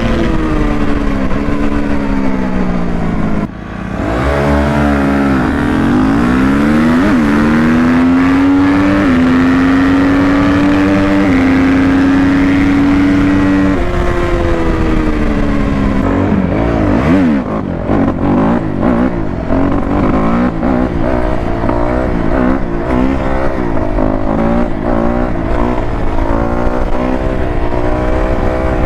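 Dirt bike engines running and revving, their pitch rising and falling as they accelerate and shift. From about the middle, more than one engine is heard at once, their pitches crossing.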